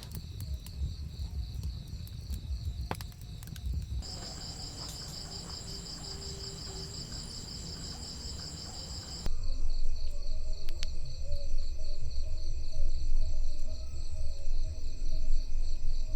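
Crickets chirping in a steady, rapidly pulsing high trill, over a low rumble that gets much louder about nine seconds in; a few sharp clicks in the first few seconds.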